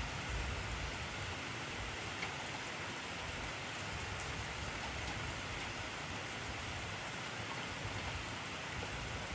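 Heavy rain falling steadily: a dense, even hiss of raindrops on surfaces.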